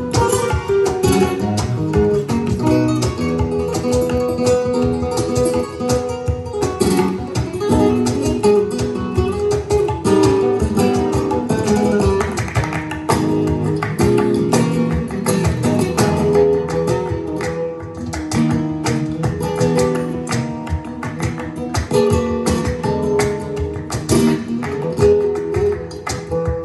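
Lively acoustic guitar music with fast plucked notes and strums, played back through a tube amplifier and bookshelf hi-fi speakers.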